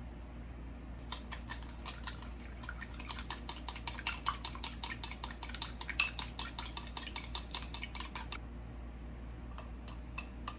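A kitchen utensil tapping rapidly and evenly against cookware, about seven sharp clicks a second for some seven seconds, stopping suddenly near the end. A low steady hum runs underneath.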